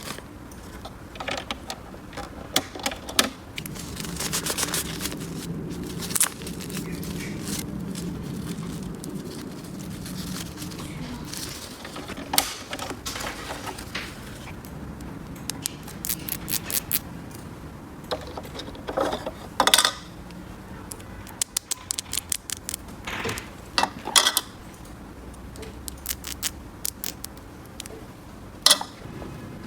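Small hard plastic toy pieces being handled and set down: irregular clicks, taps and light clatter, some in quick runs.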